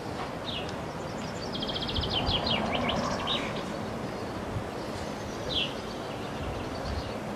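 Songbirds singing over a steady outdoor hiss: a rapid trill of about ten short high notes about one and a half seconds in, then a run of quick falling notes, and single short falling chirps near the start and again later. A few low bumps sound under the birdsong.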